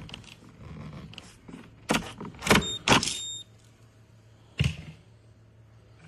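A series of sharp clicks and knocks from objects being handled. Several come close together about two to three seconds in, one of them with a brief ringing tone, and a single knock follows a little later, over a steady low hum.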